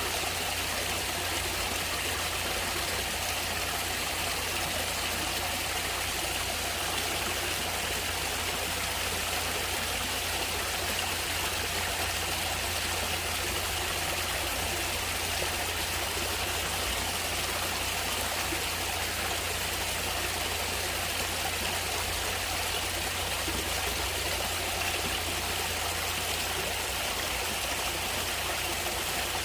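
A stream of water flowing steadily, an even, unbroken sound of running water.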